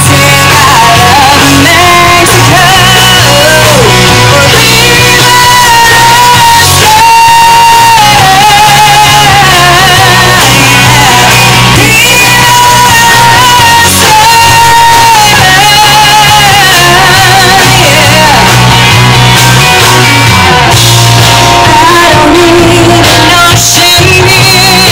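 Live country-rock band playing loudly through an instrumental break, with a lead melody line wavering with vibrato over the full band.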